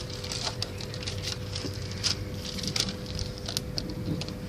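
Small fire of hay and sticks crackling with irregular scattered pops while it is dying down.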